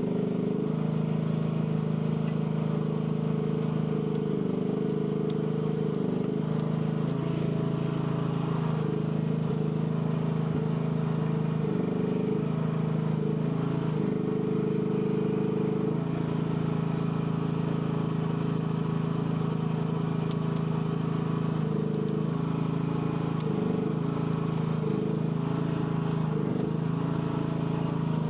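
AGT L12 mini excavator's small engine running steadily. Its pitch sags briefly several times, as happens when the hydraulics put load on the engine while the boom and thumb are worked.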